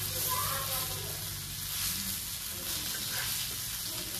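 Pieces of arbi (taro) leaf roll shallow-frying in oil in a pan, sizzling steadily. The pieces have been turned and are browned.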